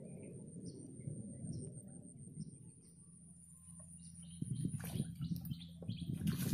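Small birds chirping in short high notes every half second or so over a low rumble. Near the end come sudden splashes and knocks as a hooked tilapia is played to the surface.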